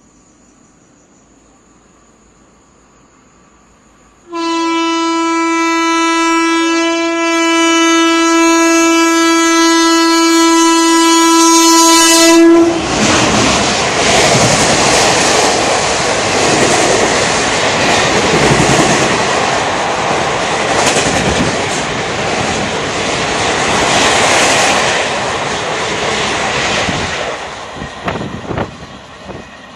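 An Indian Railways express train, the Shaktipunj Express, runs through at speed. The locomotive's horn sounds about four seconds in as one long steady blast of about eight seconds, cut off as the engine passes. Then the coaches go by in loud wheel and rail noise that fades near the end.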